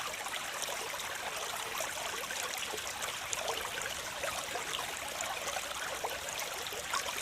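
Waterfall: a steady rush of falling water with many small splashes and trickles throughout, light in the low end.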